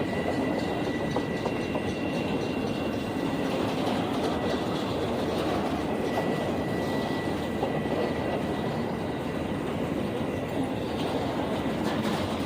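A train rolling past close by, its wheels running steadily on the rails with a faint, steady high whine over the noise.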